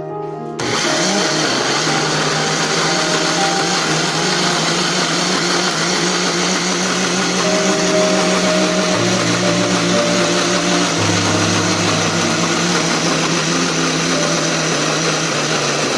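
Countertop blender running steadily, mixing cake batter of eggs, sugar and oil; it switches on about half a second in and stops near the end.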